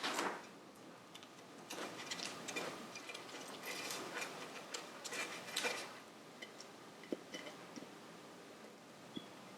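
Hand scuffing of motorcycle engine casings with 600 grit abrasive paper: irregular rasping strokes, easing off after about six seconds into a few small clicks and taps.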